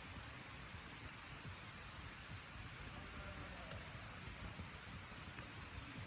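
Small wood campfire burning: a steady hiss with scattered sharp crackles and pops.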